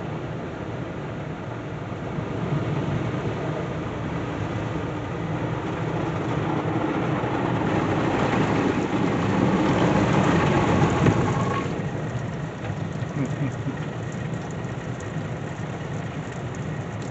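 Istobal Flex 5 rollover car wash spraying water over the car, heard from inside the cabin as a steady rain-like drumming on the body and glass. It swells to its loudest about ten seconds in as the spray passes close, then drops off suddenly a second or so later.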